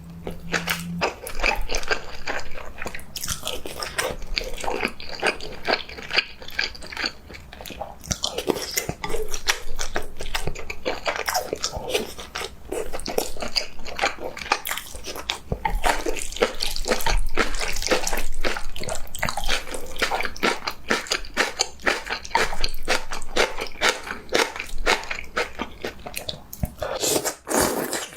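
Close-miked eating: a person biting and chewing food, a dense, continuous run of quick mouth clicks and smacks.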